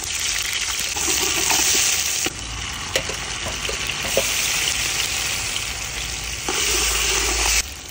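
Chopped onions, then diced tomatoes, sizzling as they are tipped into hot oil in a large metal pot and stirred with a ladle. The sizzle swells and drops several times, with a couple of light knocks.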